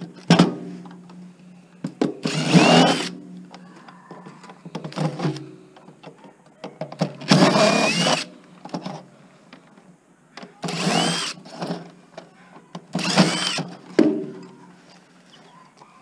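Cordless drill run in four short bursts of about a second, each spinning up with a rising whine, backing screws out of a DVD player's casing.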